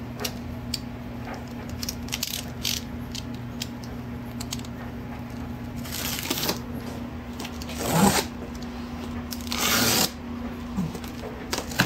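Packaging being handled and rustled: scattered light clicks, then a few louder scraping rustles near the middle and toward the end, over a steady low hum.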